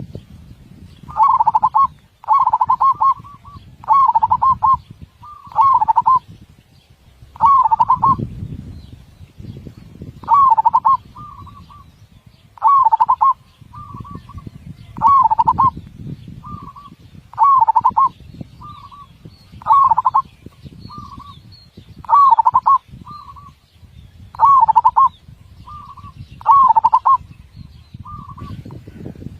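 Zebra dove (perkutut) singing: a full-voiced, closely beaten coo phrase repeated about every two seconds. Each phrase is a strong, rolling coo followed by a shorter, lighter note, over a low background rumble.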